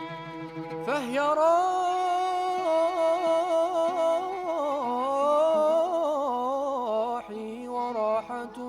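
Sufi devotional music: a solo voice enters about a second in and sings long, ornamented melodic phrases over a sustained bowed-string note.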